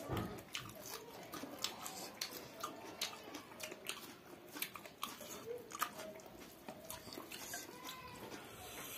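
Close-up eating sounds: chewing of chicken and rice with a steady run of small, wet mouth clicks several times a second.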